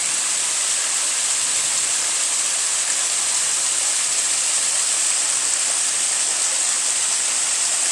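A small woodland waterfall rushing steadily, an even hiss of falling water.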